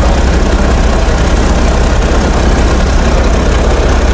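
A DC-3's piston radial engines running steadily after start-up: a loud, even, deep engine sound heard from inside the cockpit.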